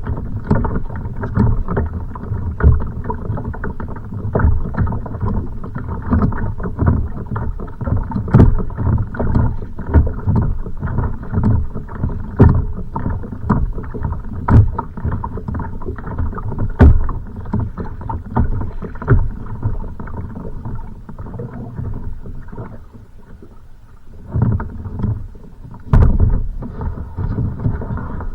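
Choppy waves slapping and knocking against a kayak's hull, with sharp hits every couple of seconds over a rumbling wash of water. The hits ease off for a moment about three quarters of the way through, then return.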